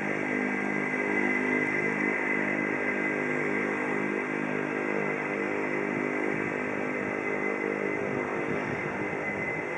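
Vintage piston aircraft engine running steadily at an even pitch, with a faint high whine above it.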